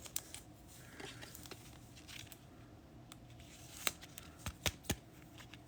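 Trading cards and plastic card sleeves being handled: faint rustling with a few light, sharp clicks, most of them bunched together about four to five seconds in.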